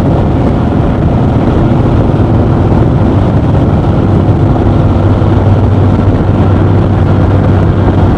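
Harley-Davidson motorcycle's V-twin engine running steadily at cruising speed, with a constant low drone under road and wind rush.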